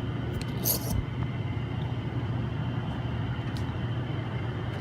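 Steady low machine hum with a faint high whine over it, and a brief sharp rustle or click just under a second in.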